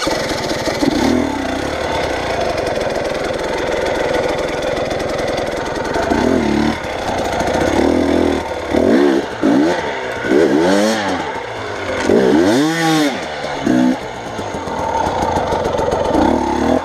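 A vehicle's engine pulls under load while driving off-road. Between about eight and thirteen seconds in, it revs up and down several times in quick swells, working the vehicle over rough ground.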